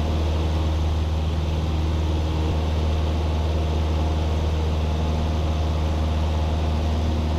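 Cessna 172's engine and propeller droning steadily in flight, heard through the cabin intercom.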